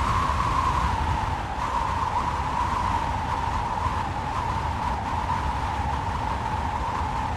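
Strong wind blowing steadily, with a howling whistle that sinks slowly in pitch over a low buffeting rumble.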